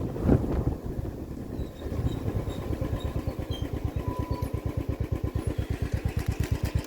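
An engine idling with an even low chug of about eight beats a second, settling in after a louder, rougher start.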